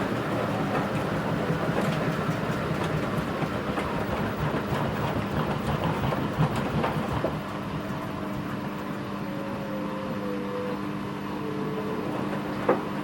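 Front-loading washing machine partway through a 40°C wash program: the drum turns the wet laundry with dense rattling and knocking. About seven seconds in, the noise eases into a steady motor hum with a slowly falling whine, and a sharp click comes near the end.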